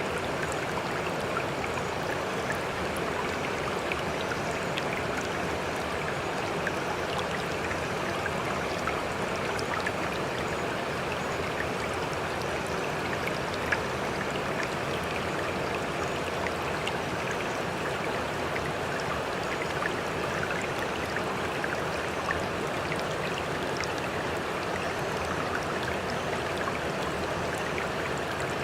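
Sea water splashing and lapping in a steady, unbroken rush, with many small droplet splashes throughout and no separate waves breaking.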